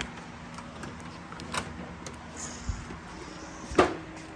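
A few scattered knocks and clunks, the loudest about four seconds in with a short ringing tail.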